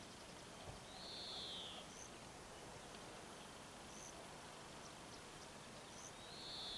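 Birds calling over a steady background hiss: two short, hoarse calls that fall slightly in pitch, about a second in and again near the end, with faint short high chirps every two or three seconds.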